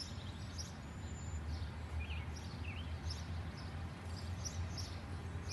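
Birds chirping and calling in short, scattered notes over a steady low hum of outdoor ambience.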